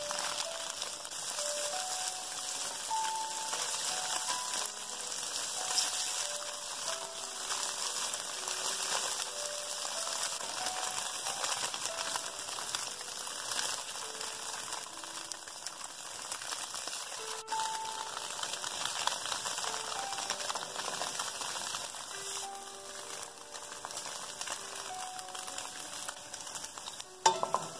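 Firm tofu blocks sizzling as they pan-fry in oil in a nonstick wok over medium-high heat, a steady frying hiss. A light background music melody plays over it.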